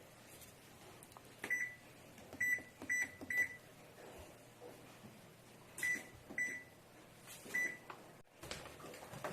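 Washing machine control panel beeping as its buttons are pressed: seven short, identical high beeps in uneven groups, with pauses between them.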